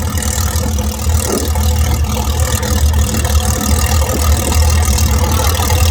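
Piston aircraft engines idling on the ground, a steady low drone.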